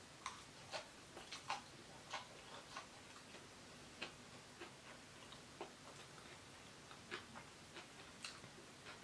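Irregular small clicks and taps from someone eating noodles, about a dozen, unevenly spaced.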